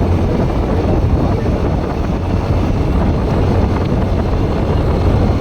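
Bajaj Pulsar NS160 motorcycle under way, its single-cylinder engine running steadily with a low rumble, mixed with wind noise on the microphone.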